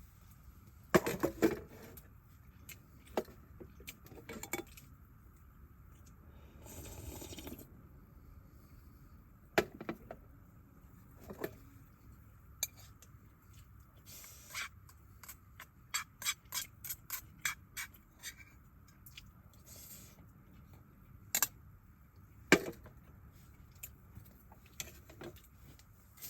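Scattered small clicks, clinks and scrapes of objects being handled, with a brief rustle about seven seconds in and a quick run of light clicks about two-thirds of the way through.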